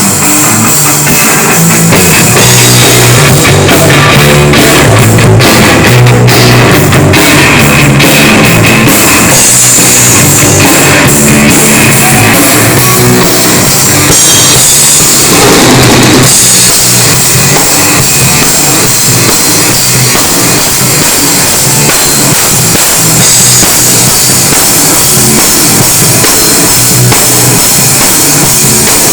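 Rock band playing an instrumental passage: a loud drum kit with guitar and bass, and no singing.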